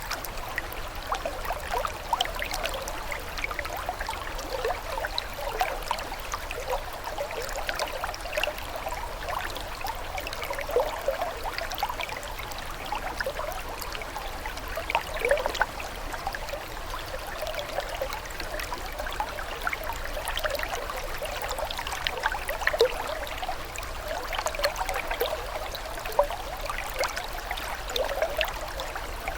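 Running water trickling steadily, with a continuous wash of small splashes and gurgles.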